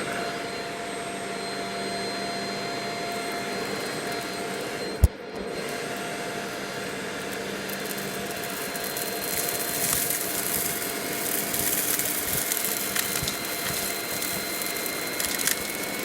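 Shark Rocket vacuum cleaner motor running steadily with a steady whine. There is a single sharp knock about five seconds in.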